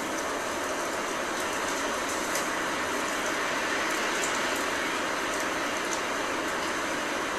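Steady rushing noise of blizzard wind and rain, unchanging throughout, with faint scattered ticks.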